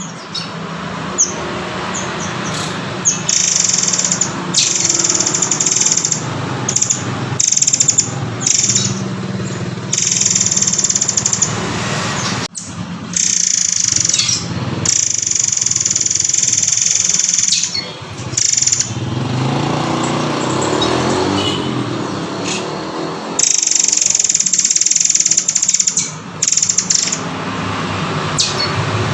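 Songbird calls from a masteran recording of the murai air (murai kopi): runs of sharp, high chirping calls, broken by short pauses, over a steady low hum.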